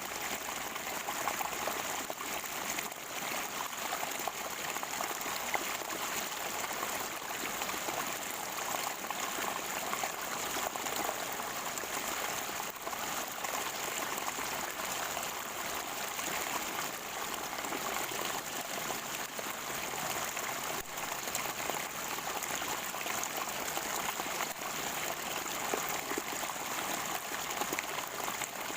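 Natural spring water gurgling and trickling steadily.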